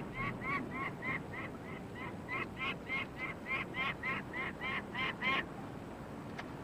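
Peregrine falcon giving its harsh repeated cacking call, a fast run of short calls, about three or four a second, that stops about five seconds in.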